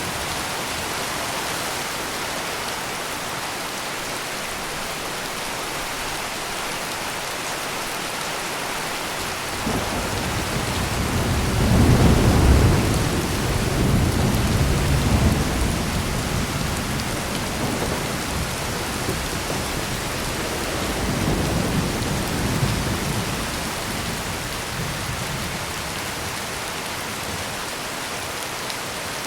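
Heavy rain pouring steadily, with a roll of thunder that builds about a third of the way in, peaks loudest soon after, and rumbles on in swells before fading away.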